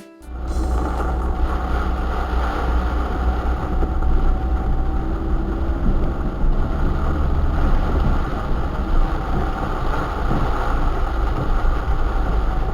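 Small van driving, its engine and road noise heard as a steady low rumble from inside the vehicle, starting abruptly at the outset.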